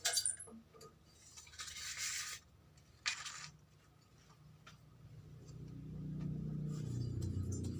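A knock, then two short rasping rubs of abrasive paper on the metal of a cylinder bore. From about five seconds in, a low motor hum fades in and holds.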